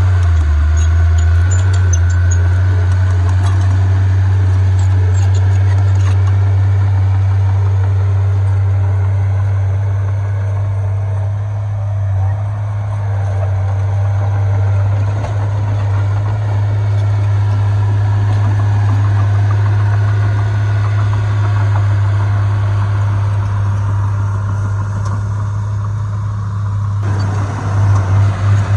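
Heavy diesel engines of earthmoving machinery (bulldozer and dump trucks) running steadily with a deep, continuous drone, with a few quick surges in level near the end.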